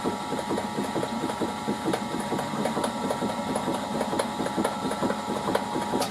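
Machine spindle turning slowly with a ½-inch reamer cutting through a hole in an aluminium test piece, running at its slowest speed with oil on the cut. It makes a steady running sound with a rapid, regular ticking and a thin steady whine. It stops right at the end.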